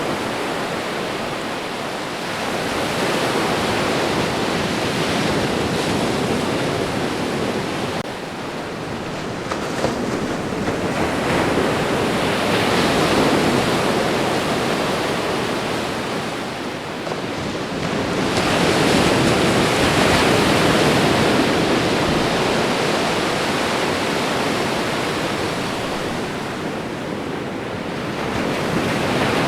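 Ocean waves washing onto a shore: a steady rush that swells and falls back every seven or eight seconds.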